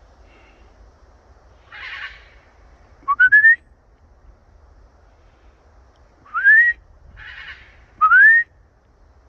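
A parrot giving three short rising whistles, each sweeping upward, with two short raspy calls in between.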